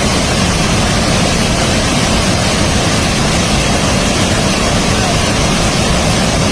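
Large waterfall close by: a loud, steady rush of falling water.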